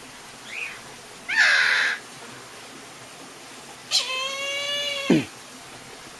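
A large bird calling: a short harsh squawk just over a second in, then a long, drawn-out wailing call about four seconds in that drops sharply in pitch at its end.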